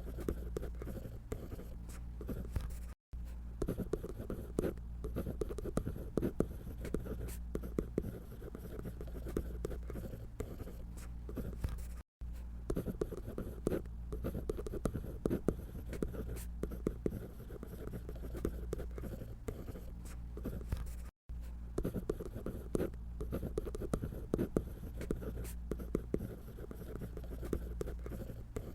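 Scratchy strokes of a drawing tool on paper, quick and continuous, over a steady low hum. The sound cuts out for an instant three times.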